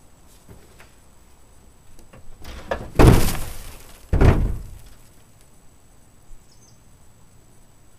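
Two heavy thuds about a second apart, each fading away over about a second.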